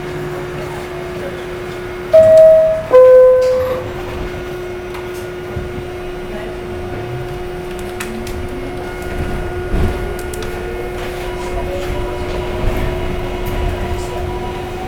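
R68 subway car's two-tone door-closing chime: a loud descending ding-dong about two seconds in, over the car's steady electrical hum. The train then pulls out and its Westinghouse traction motors whine, rising steadily in pitch as it accelerates, with a single knock near the middle.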